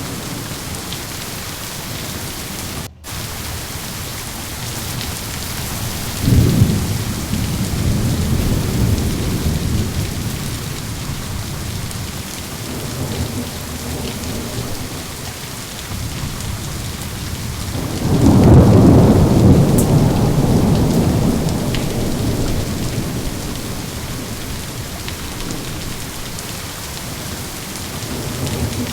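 Steady rain falling through a thunderstorm, with two low rolls of thunder: one about six seconds in and a louder one about eighteen seconds in that fades away over several seconds. The sound cuts out for a split second about three seconds in.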